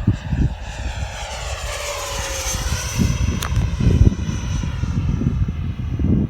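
Electric ducted-fan model jet whining past on a fast pass, its pitch falling as it goes by. Wind buffets the microphone throughout, and there is one sharp click about halfway through.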